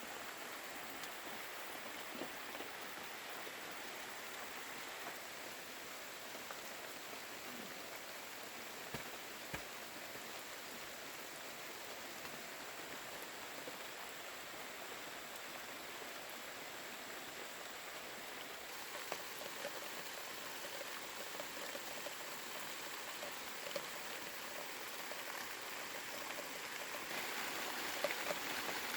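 Steady rain falling, an even hiss with a few light taps.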